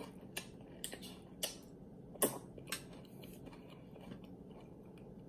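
Close-miked chewing of a mouthful of loaded tortilla-chip nachos: a handful of sharp crunches and mouth clicks in the first three seconds, then only faint chewing.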